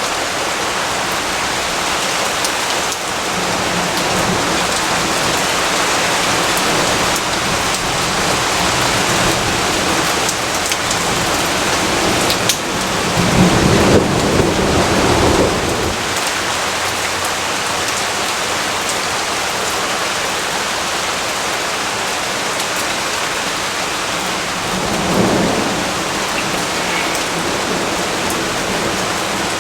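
Steady rain, with a low rumble of thunder swelling about thirteen seconds in for a few seconds and a fainter one near the end.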